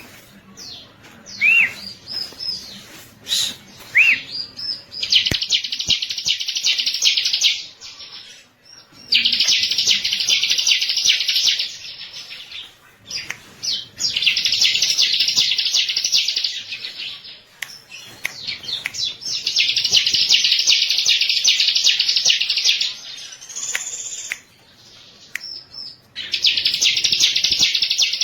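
Ciblek (bar-winged prinia) singing: long, rapid, buzzy high trills of about three seconds each, repeated five times, with short separate chirps in the gaps between them.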